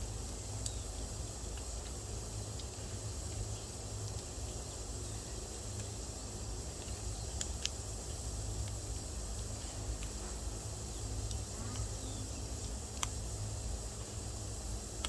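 Wood fire burning in a wood stove, crackling with a few sharp, irregularly spaced pops over a steady low rumble and hiss.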